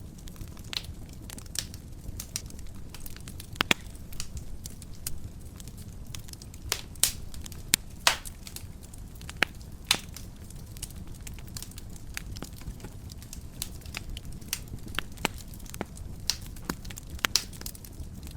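Wood fire burning in a fireplace: a steady low rumble of flames with irregular crackles and sharp pops, a few of them louder.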